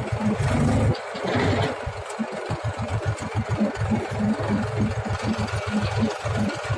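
HMT 4022 tractor's diesel engine running at low speed with a steady, uneven throbbing beat.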